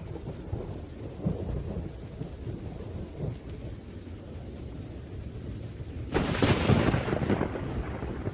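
Thunderstorm: thunder rumbling low and unevenly under steady rain, then a sharp, loud thunderclap about six seconds in that fades over a couple of seconds.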